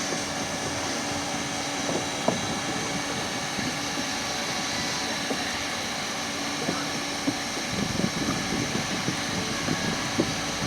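A steady, even motor hum, with scattered light knocks and clicks in the second half.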